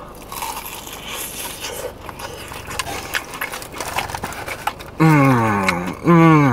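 A man chewing a mouthful of hot, crispy fried chicken, with small crunches and mouth noises. Near the end come two drawn-out moans falling in pitch, his reaction to the hot bite.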